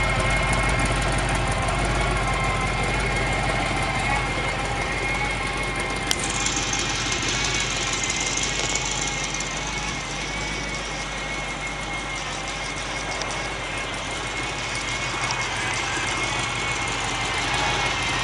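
Engine of a 1929 Ford Model A pickup rat rod idling steadily, with a sharp click about six seconds in.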